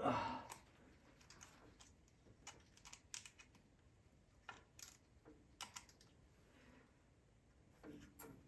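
Faint, irregular light clicks and taps from hand work on parts and wiring in a UTV engine bay, some in quick pairs, after a short louder scuffing noise at the very start.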